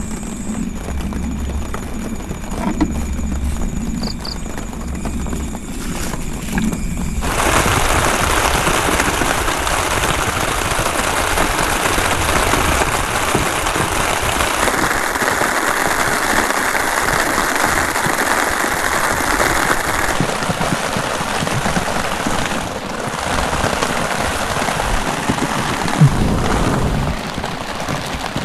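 Heavy rain falling as a loud, steady hiss that starts abruptly about seven seconds in; before that the sound is quieter and thinner.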